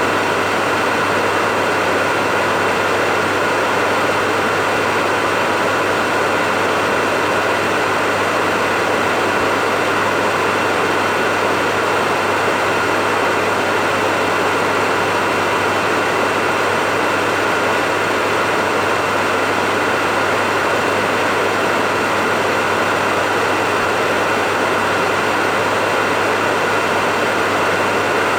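Hair dryer blowing continuously: a steady, even whoosh of air with a constant low motor hum and a faint high whine. It never varies, used as white noise for lulling a baby to sleep.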